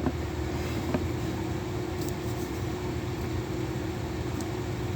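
Steady background hum with a constant low tone, like a fan or an appliance running in a room, with a couple of faint ticks.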